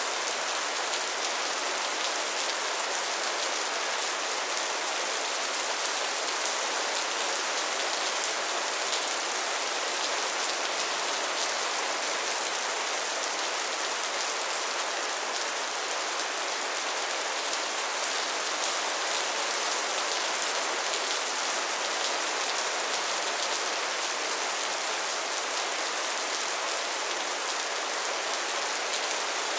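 Soft steady rain falling, an even hiss of drops pattering on a surface, with no change in strength.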